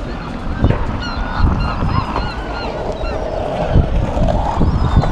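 Seagulls calling: many short, overlapping squawks from several birds, with one longer wavering call in the second half.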